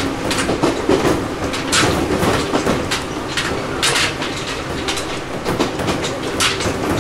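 Ohmi Railway 800 series electric train car running at speed, heard from inside the passenger cabin: a steady rumble and hum of the running gear, with sharp clacks from the wheels at irregular intervals.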